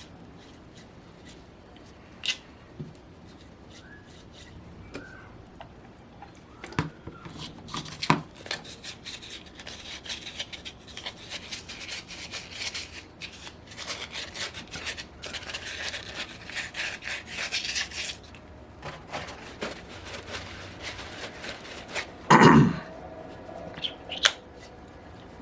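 Small metal engine parts being handled and worked by hand: scattered clicks, then a long stretch of rubbing and scraping, and one loud knock about 22 seconds in.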